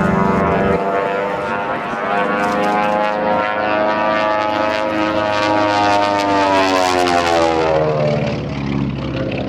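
Twin Pratt & Whitney radial engines of a Beech 18 making a low pass, a deep propeller drone whose pitch climbs and then slides down toward the end as the aircraft goes by.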